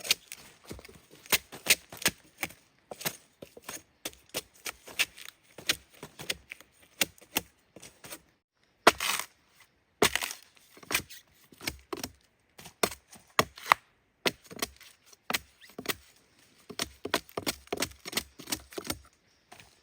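A blade chopping in quick, irregular strokes, a few a second, with a short rustle about nine seconds in.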